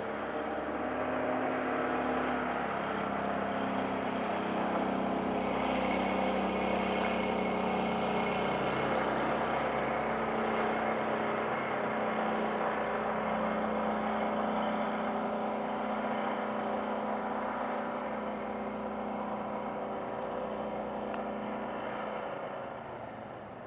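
35 hp Briggs & Stratton EFI V-twin on a Go-Devil mud motor pushing a jon boat, running steadily under way. The engine note grows louder over the first few seconds and fades toward the end.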